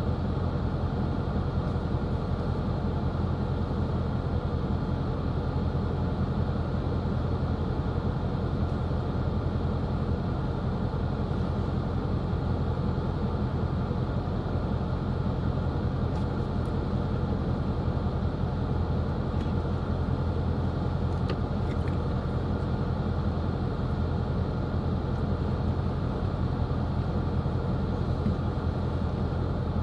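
Steady road and engine noise of a car cruising, heard from inside the cabin: an even low rumble with tyre hiss that does not change.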